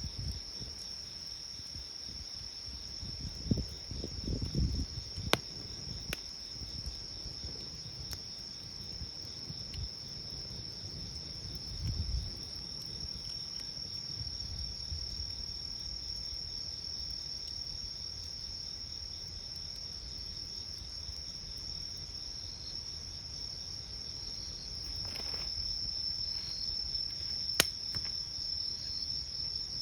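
A steady high-pitched chorus of night insects chirping, with a few sharp pops from a crackling wood campfire. Brief low rumbling comes a few seconds in and again midway.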